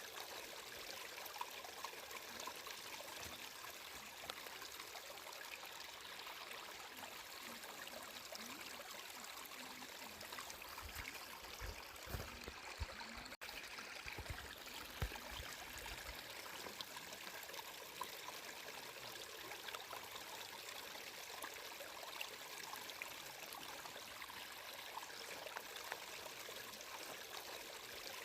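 Steadily flowing, trickling stream water. Around the middle there are a few low thumps and a momentary cut-out in the sound.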